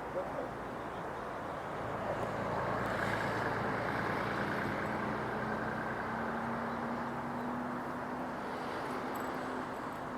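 Boeing 757-200 jet engines running during the landing, a steady rushing rumble that swells about two seconds in, with a faint tone slowly rising in pitch through the second half.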